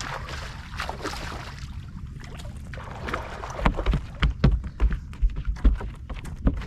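Irregular heavy thumps and knocks on a small fishing boat, beginning about three and a half seconds in and coming several a second, over a steady hiss of wind and water.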